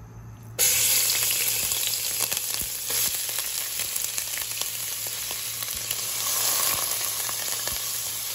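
Crushed garlic, ginger and green chillies dropped into hot coconut oil in a pan, sizzling up suddenly about half a second in and then frying steadily with small crackles.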